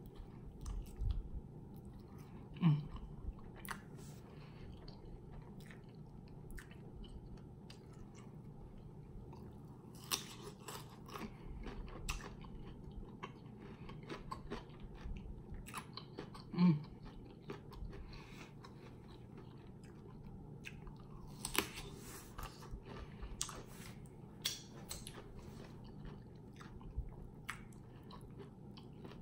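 Close-up eating sounds: chewing and biting into lemon pepper rotisserie chicken and crisp cucumber spears, with many short wet clicks and crunches. Two short low throat sounds stand out, about three seconds in and again about seventeen seconds in.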